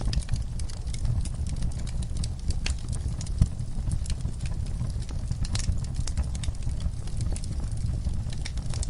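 Wood fire burning in a fireplace: irregular crackles and snaps over a steady low rumble, with one sharper pop about three and a half seconds in.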